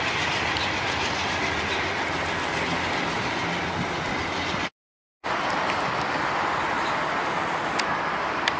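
VIA Rail passenger train pulling away, the wheels of its coaches giving a steady rolling noise on the rails. The sound drops out for about half a second midway, then resumes, with a couple of sharp clicks near the end.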